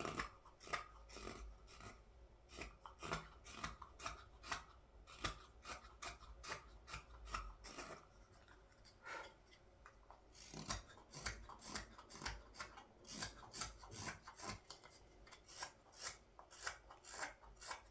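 Knife shaving a green-wood scoop in short, quick slicing strokes, about two a second, with a short pause partway through.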